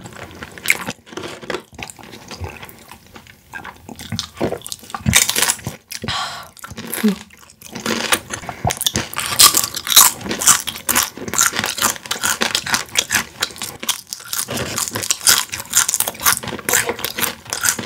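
Crispy fried boneless chicken being bitten and chewed close to the microphone: crunches come sparsely at first, then thick and fast from about halfway.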